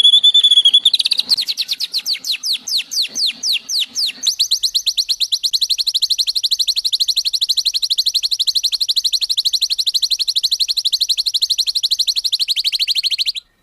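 Songbird song phrases: a high rapid trill, then a run of quick sweeping notes, then from about four seconds in a very fast, even, high rattling trill that cuts off abruptly near the end.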